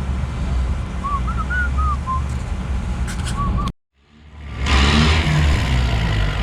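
Tractor engines running as a steady low rumble, with a few short high whistle-like chirps about a second in. The sound cuts out completely for a moment past the middle, then comes back louder.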